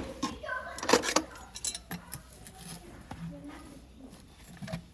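Farrier's metal tools clinking and knocking while working on a horse's hoof: a few sharp, irregular strikes, the loudest at the start and about a second in, with lighter taps between.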